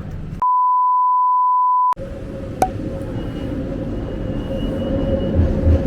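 A censor bleep: one pure steady tone, about one and a half seconds long, that blanks out all other sound. It is followed by steady background hum with a faint, even whine and a single click.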